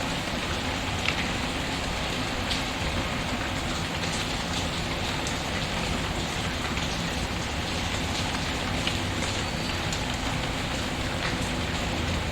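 Steady rain falling, an even patter, with a few faint sharp crackles from a wood fire in a fireplace.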